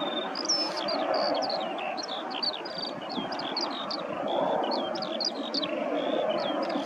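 Small birds chirping, a rapid run of many short high notes, over a steady rushing background noise.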